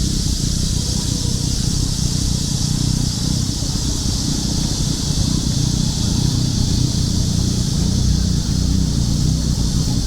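Cicadas singing in a steady, unbroken high-pitched chorus, over a constant low rumble.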